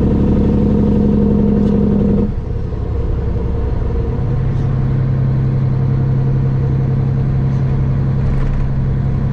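A road vehicle's engine running steadily. A little over two seconds in, the engine note drops and the level dips briefly, then it settles on a lower, steady note.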